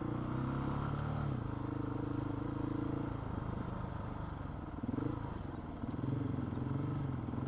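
Motorcycle engine running under way, with steady road noise. Its note drops about a second in and shifts again around five to six seconds as the throttle changes.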